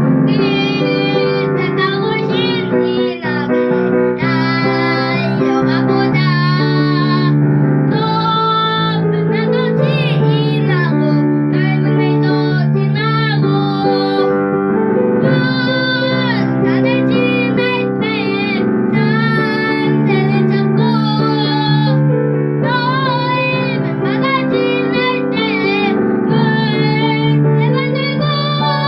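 A child singing a song with piano accompaniment.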